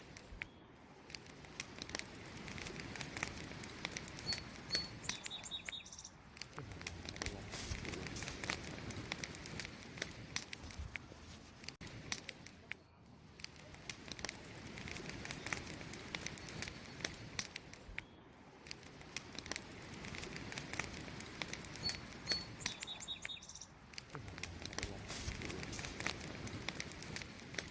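Wood campfire crackling and popping continuously over a low hiss of burning that slowly swells and fades. A few short high bird chirps come about four seconds in and again about twenty-two seconds in.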